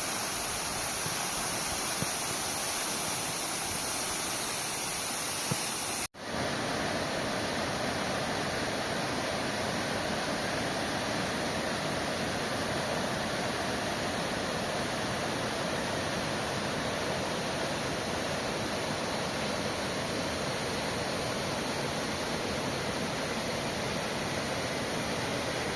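A waterfall's steady rush of falling water. It cuts out for an instant about six seconds in, then carries on much the same.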